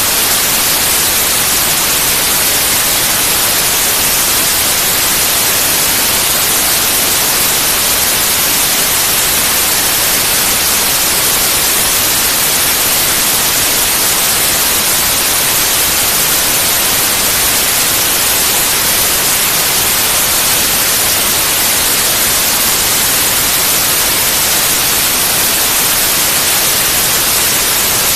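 Steady white noise: an even, loud hiss spread across all pitches, brightest in the highs, with no change.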